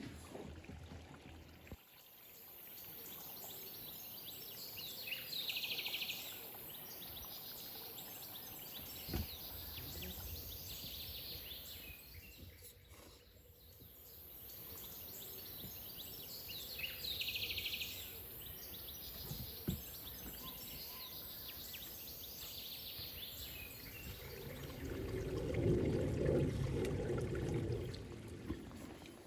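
Outdoor forest ambience: a steady high-pitched hiss that drops out briefly about halfway, with a few faint bird calls. A louder, lower noisy stretch comes near the end.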